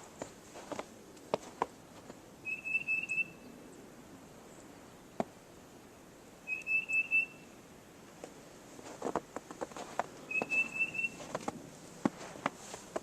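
A songbird singing a short, even trill of several quick notes on one pitch, repeated three times about four seconds apart, with scattered light crunches and clicks between the songs.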